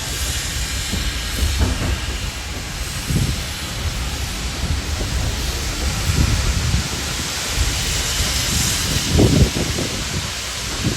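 Steam train under way: a steady hiss of steam over an uneven low rumble, with a louder surge about nine seconds in.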